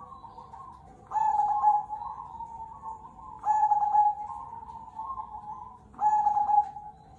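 Zebra dove (perkutut) cooing: three loud phrases about two and a half seconds apart, each a strong opening note followed by softer trailing coos, with quieter cooing in between.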